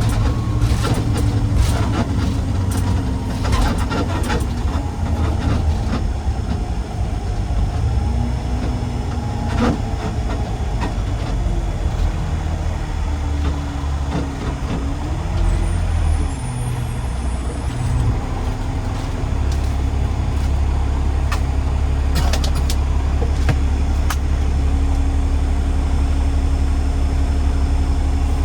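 Garbage truck driving, its engine running steadily with scattered rattles and knocks. The engine note dips about halfway through, then settles and holds steady.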